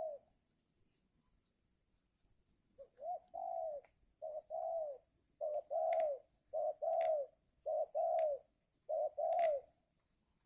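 Spotted dove (tekukur) cooing: a two-part phrase, a short note then a longer arched one, repeated six times about once a second starting about three seconds in. A few faint clicks fall among the later coos.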